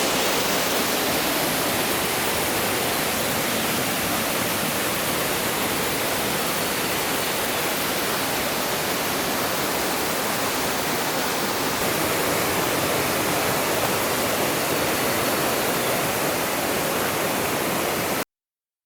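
Steady rush of water in a mountain gorge stream, the even roar of falling and tumbling water, which cuts off abruptly near the end.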